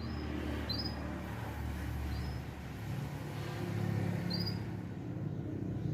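Young edel sanger finch giving four short, high chirps spread over a few seconds, over a steady low background rumble.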